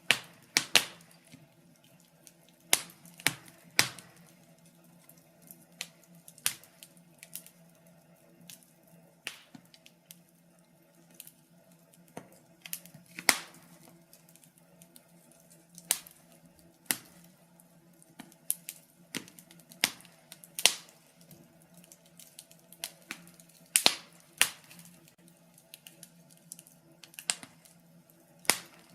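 Wood fire crackling in a fireplace: scattered sharp pops and snaps at uneven intervals, a little under one a second, some louder than others.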